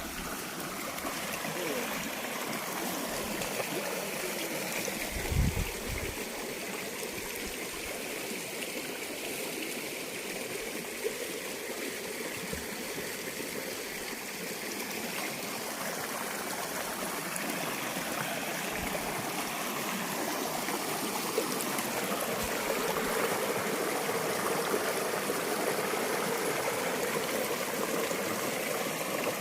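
Steady rush and trickle of a flowing forest stream, with a brief low thud about five seconds in.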